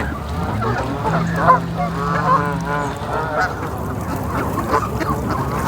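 A flock of Canada geese honking, many short calls overlapping one another.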